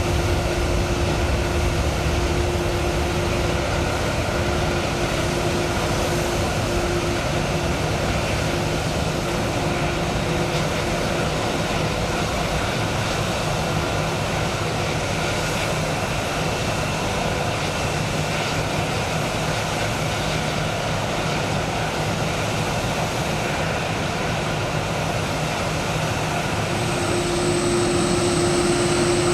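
Jet airliner engines running on the ground, a steady roar with held whining tones. A high-pitched whine joins near the end as the sound grows slightly louder.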